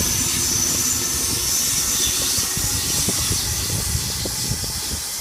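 Sydney Trains H-set (OSCAR) electric train pulling out of the platform: a steady rumble of wheels on rail with hiss, and a high electric whine that fades out about two and a half seconds in. The sound eases slightly toward the end.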